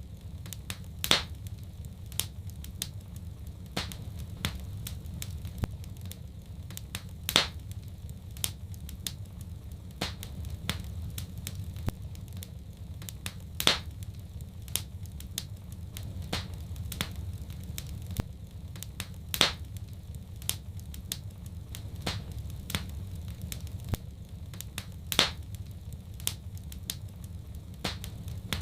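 Wood fire in a fireplace, crackling over a steady low rumble. Many small snaps are scattered through it, with a louder pop about every six seconds.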